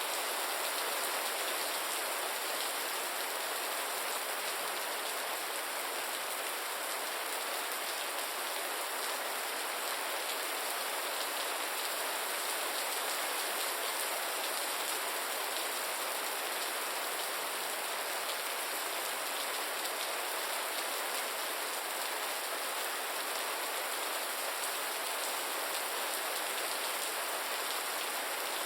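Steady rain falling, a dense even patter of drops without let-up.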